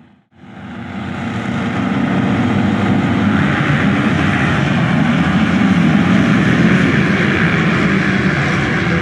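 Motocross bike engines running together in a loud, dense drone that swells up over the first couple of seconds and then holds steady.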